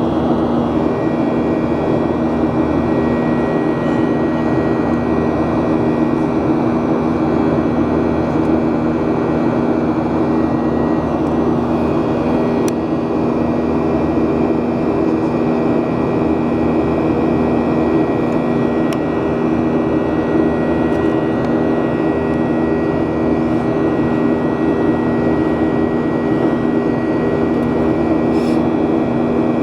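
Jet airliner's engines running steadily, heard from inside the passenger cabin: an even rush of noise with a steady hum.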